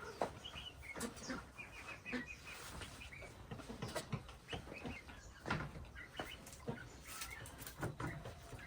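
Birds chirping in short, scattered calls, mixed with occasional light clicks and knocks.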